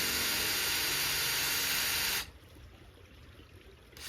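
Power drill running under load, driving a screw into the wood framing, in two runs: a long run that stops about two seconds in, then starts again near the end.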